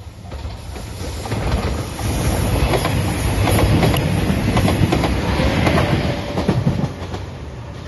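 Nanpu limited express diesel train passing at speed, its wheels clattering over the rail joints. The sound builds from about a second in, is loudest in the middle, and falls away near the end.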